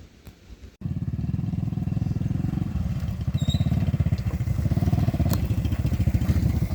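Engine running steadily with a rapid, even chugging beat, starting abruptly about a second in.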